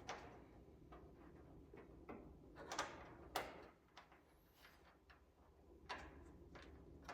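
Faint, irregular clicks, taps and short scrapes of a hand fumbling to start a nut on a fastener blind, working up behind a car's front spoiler, with a couple of sharper knocks about three seconds in.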